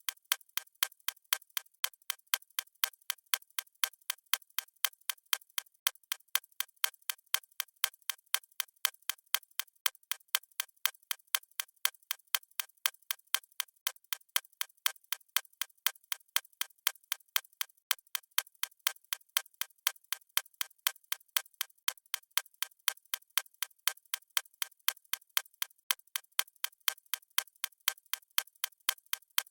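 Clock ticking sound effect: sharp, evenly spaced ticks at a steady rate, thin and high with nothing in the bass.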